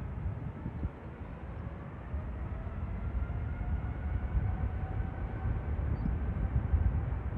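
Jet airliner passing by, a low rumble with a faint engine whine that slowly shifts in pitch, growing louder toward the end.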